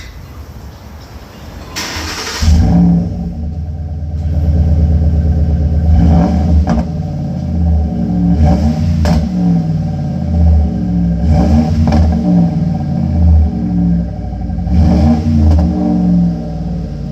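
2007 Ford Explorer Sport Trac engine starting up about two seconds in, then revved over and over. A deep exhaust rumble through Flowmaster Super 10 mufflers swells and falls with each rev.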